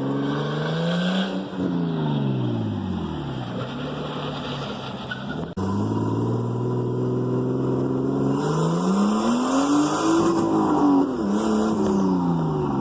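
Datsun 280ZX's RB25DET straight-six engine running under way, its note climbing and then falling away twice as the car accelerates and eases off, with an abrupt cut about five and a half seconds in.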